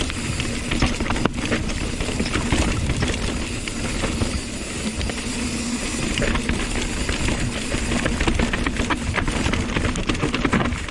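Hardtail mountain bike riding fast down a rough, rocky trail: wind rushing over the microphone, tyre noise and a constant rattle and clatter of the bike over the rocks.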